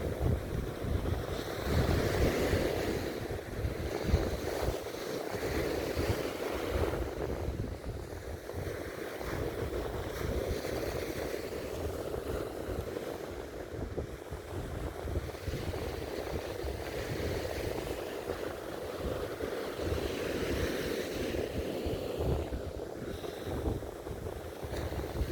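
East Sea surf washing steadily onto a beach, with wind buffeting the microphone in uneven gusts.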